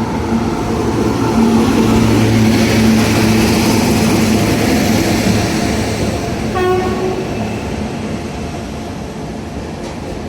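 An Indian Railways express train, the Bandra Terminus–Jamnagar Humsafar Express, runs past with a steady rumble. The rumble swells to its loudest about two to three seconds in and then slowly fades. About two-thirds of the way through there is a brief pitched tone.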